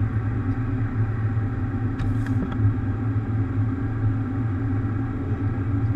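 Steady low rumble and hum of a Boeing 737's engines and airframe as heard inside the flight deck, with a brief faint click about two seconds in.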